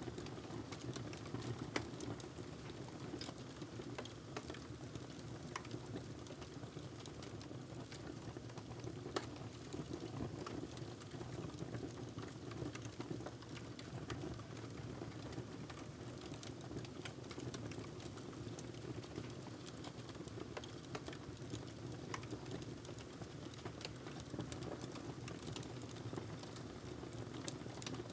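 Wood fire in a fireplace crackling and popping: irregular sharp snaps over a steady low rush of burning.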